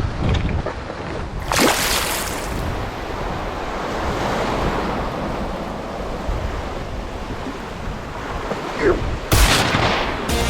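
Sea waves washing against rocks: a steady surf, with two louder surges as waves break, about two seconds in and near the end.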